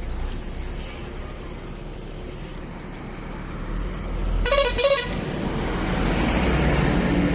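Highway traffic at night: a steady low rumble of passing vehicles, broken about four and a half seconds in by two short honks of a vehicle horn, then the road and engine noise of a vehicle swelling as it passes.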